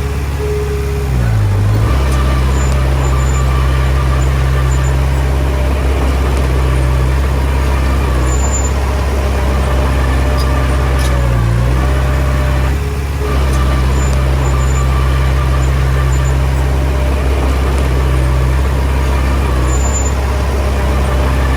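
Komatsu D20P bulldozer's diesel engine running steadily under load, with a brief change in the engine note about a second in and again about thirteen seconds in.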